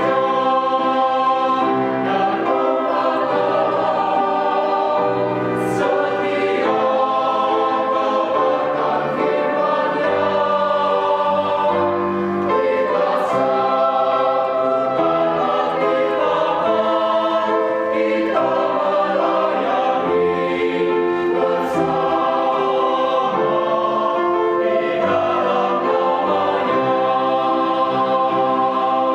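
Adult choir singing in parts: full sustained chords that change every second or two, with the hiss of sung consonants now and then.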